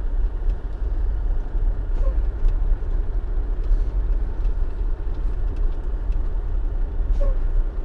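Dump truck's diesel engine and drivetrain running steadily while the truck drives, heard from inside the cab as a deep, even rumble.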